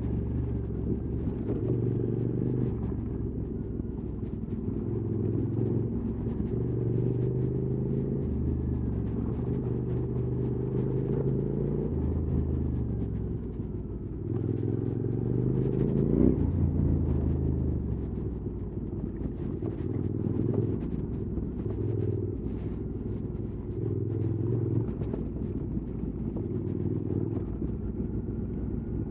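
QJ Motors SVT650X motorcycle's parallel-twin engine running through an Arrow slip-on exhaust while riding. The revs rise and fall every few seconds with the throttle, and the engine is loudest about sixteen seconds in.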